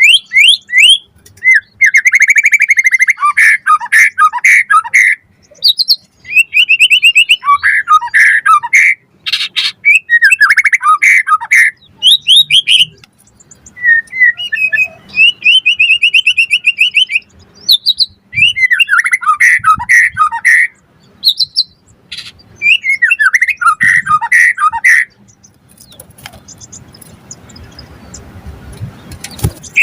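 White-rumped shama (murai batu) singing loud, varied phrases: fast strings of repeated notes, trills and whistles in bursts with short gaps. About four seconds before the end the song breaks off, leaving only a faint hiss.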